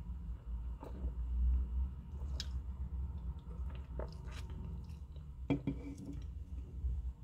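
Close-up chewing of a mouthful of chicken burger with a soft bun, with small wet mouth clicks over a low steady hum. About five and a half seconds in, a single knock as a beer can is set down on the desk.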